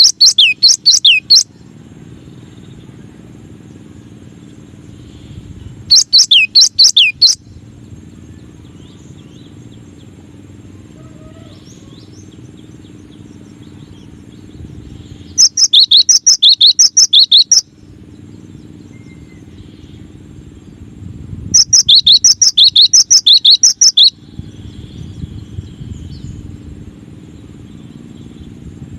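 Cinereous tit (gelatik batu) singing four bursts of rapid, sharp, high chirps, each burst a second or two long, with a steady low rumble in the gaps.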